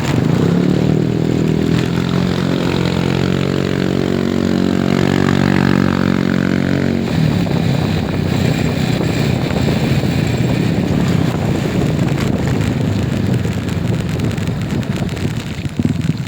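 A vehicle engine running, with a steady droning tone for about the first seven seconds that gives way to a rougher rumble.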